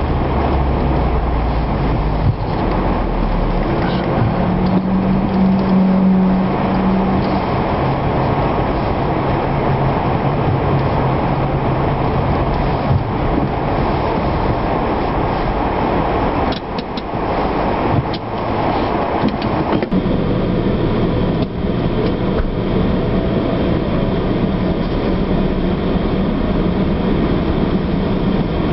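Car engine and road noise heard from inside the cabin while the car laps a race circuit. The engine note rises and falls as the car accelerates and slows, with a brief drop in level about two-thirds of the way through.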